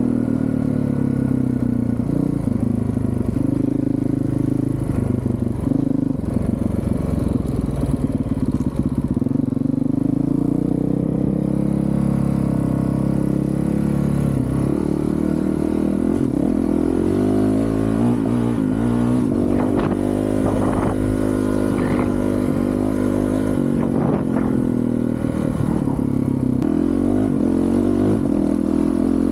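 Honda CRF450RL's single-cylinder four-stroke engine through a Yoshimura titanium full exhaust, under way: the engine note rises and falls again and again as the rider accelerates, shifts and eases off.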